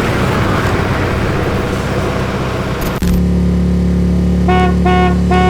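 Steady wind and road noise from a moving vehicle. After an abrupt change about three seconds in, a vehicle's engine hums steadily and a horn honks: two short toots, then a longer blast near the end.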